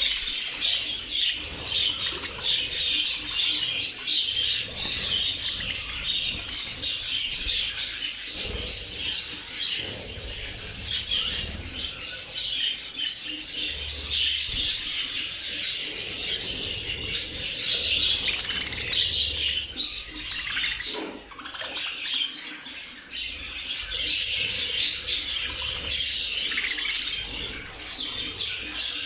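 A large flock of budgerigars chirping and chattering continuously, with wingbeats now and then.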